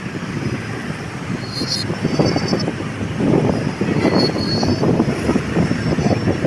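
Wind buffeting the microphone: a loud, uneven rumble. Short high chirps come through about one and a half seconds in and again about four seconds in.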